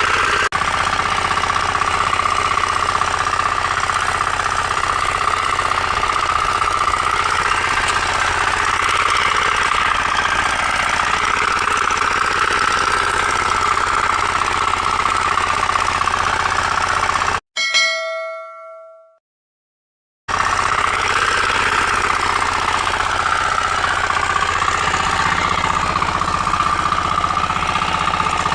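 Engine of a 9.5 hp power weeder running steadily. About two-thirds of the way through it cuts out abruptly for about three seconds of silence, which opens with a short ringing ding that dies away, and then the engine sound comes back.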